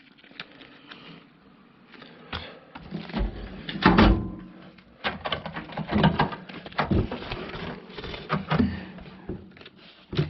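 Knocks, clicks and rattles from handling a new powder-coated metal tool chest and its contents, such as drawers and loose parts being moved. A heavier knock comes about four seconds in.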